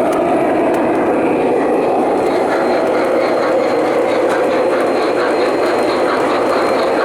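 O scale model train running along the track: a steady rolling rumble with faint, repeated clicks.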